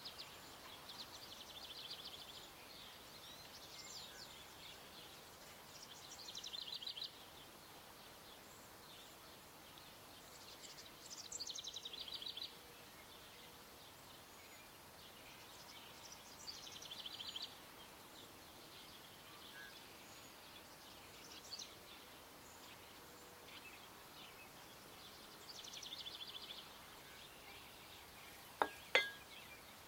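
A songbird repeating a short song about every five seconds: a falling phrase that ends in a rapid trill, over a faint steady outdoor hiss. Two sharp clicks sound near the end.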